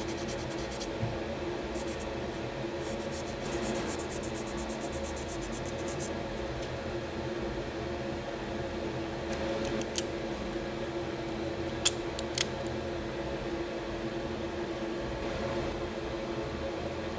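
A small motor running steadily with a constant hum, with a few light clicks and scratches over it, one near the middle and two a little later.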